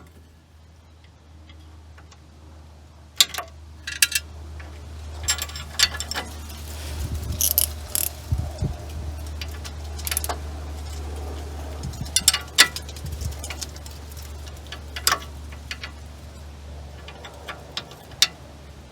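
Hand tools clinking against metal, with scattered sharp clicks, as the wrench works the loosened nut off the sway bar end link. A steady low hum runs underneath.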